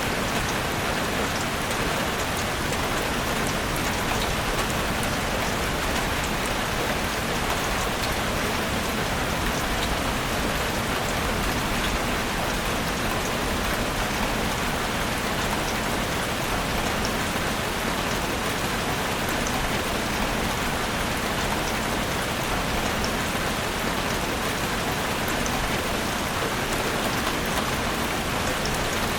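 Steady rain falling in a forest: an even, unbroken hiss with faint scattered drop ticks.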